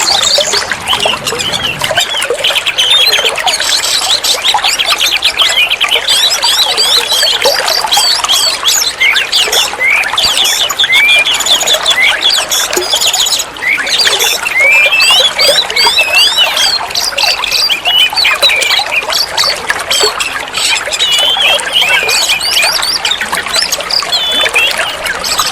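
Oriental magpie-robin (kacer) singing a continuous, varied song of quick chirps, trills and short whistled slurs: a masteran recording used to train captive songbirds.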